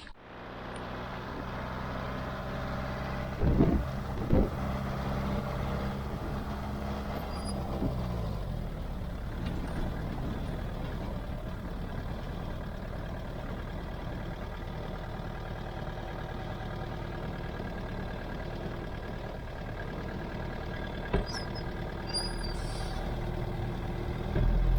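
Truck engine running steadily, its note dropping about eight seconds in, with two sharp knocks about three and a half and four and a half seconds in.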